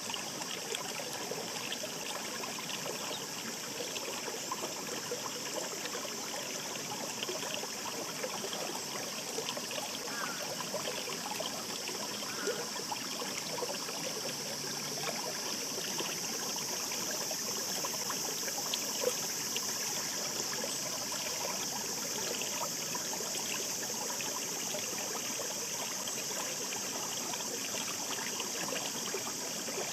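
Shallow mountain stream babbling over rocks: a steady rush with many small splashes and trickles.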